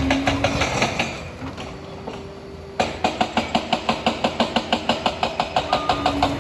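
Liebherr 746 crawler dozer running, with a steady metallic clanking about four times a second, typical of its steel tracks moving. The sound drops away about a second in and comes back abruptly just before the three-second mark. Near the end the machine's reversing alarm starts to beep.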